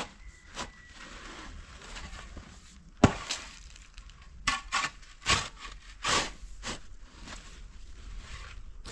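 A string of irregular knocks and thuds, the sharpest and loudest about three seconds in, with a cluster of further knocks over the next few seconds.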